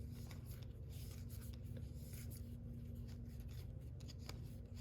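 Baseball cards being slid and flipped through by hand: faint, irregular card-on-card rubbing and flicks over a steady low hum.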